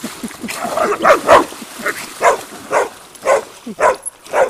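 Dog barking over and over, short sharp barks about two a second.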